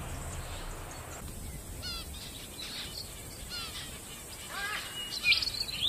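Wild birds chirping over a low, steady outdoor background hiss: short calls with quick falling pitch begin about two seconds in and come more often and louder near the end.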